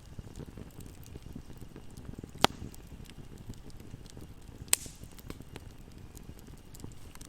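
Wood fire burning in a fireplace: a steady low rumble of flames with continual small crackles and two loud sharp pops, about two and a half and nearly five seconds in.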